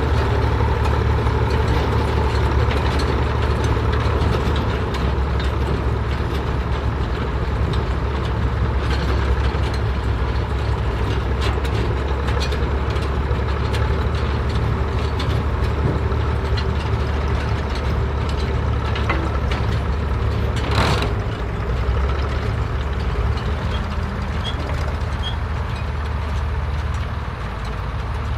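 Vintage farm tractor engine running steadily, with scattered clicks and one short burst of noise about three-quarters of the way through.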